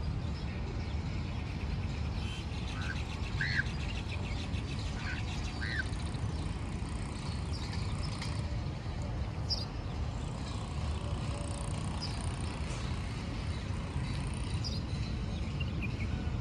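Outdoor ambience: a steady low rumble with short bird chirps scattered through it, several close together about three to six seconds in and a few higher ones later.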